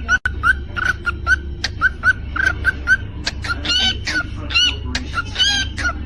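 Cockatiel chirping and whistling: a quick run of short, repeated chirps, with a few longer warbling whistles in the middle.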